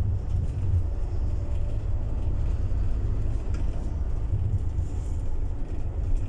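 Scania city bus running, a steady low rumble of engine and road noise.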